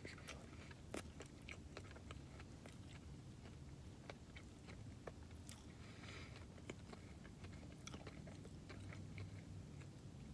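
Faint chewing and biting on a McDonald's McDouble burger: scattered soft mouth clicks and smacks over a low steady hum.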